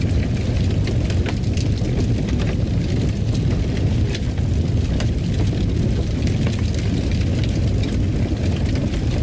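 Wood fire crackling in a fireplace: a steady low rumble of burning with frequent small sharp pops and snaps.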